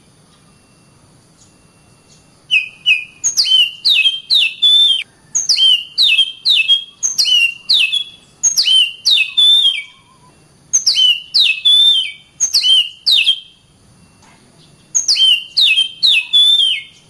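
Oriental magpie-robin (kacer) singing: runs of sharp whistled notes, each dropping steeply in pitch, about three notes a second, broken by short pauses. The song starts about two and a half seconds in.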